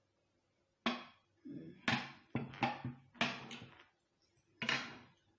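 Close-up eating sounds: about six short bites and chewing noises, with knocks of dishes and cutlery mixed in.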